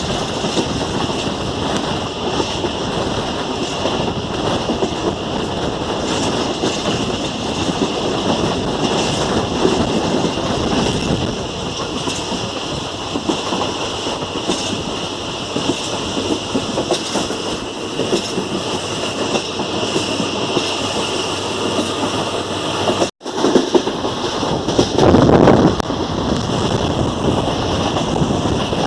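Express passenger train running at speed, its wheels clattering over the rail joints under a steady rush of running noise. Near the end the sound cuts out for an instant, then a short, louder rush follows.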